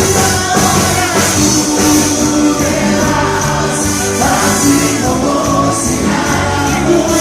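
Live band playing a song from a medley, with singing over the instruments.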